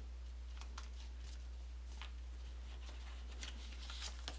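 Origami paper being handled and flattened by hand: faint, scattered crinkles and light taps, over a steady low hum.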